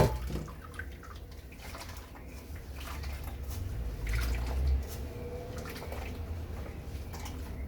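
Coconut milk dripping and trickling from blended coconut pulp being squeezed and strained, with a sharp knock right at the start.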